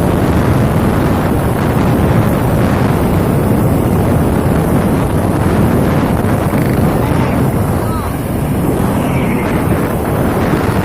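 Truck's diesel engine running loud and steady through a 'Serigala' aftermarket exhaust, with wind buffeting the microphone.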